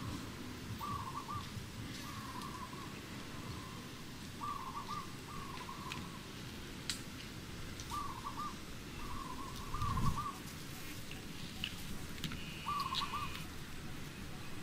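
A bird calling over and over: a short warbling phrase of a few quick notes, repeated every second or two. A low thump about ten seconds in.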